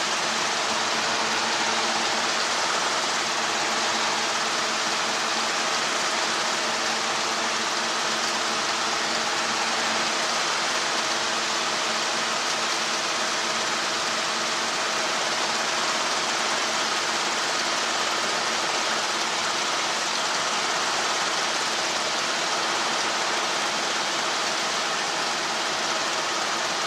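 Helicopter in flight: a steady drone of engine and rotor with a strong, even hiss over it and faint steady hum tones underneath, unchanging throughout.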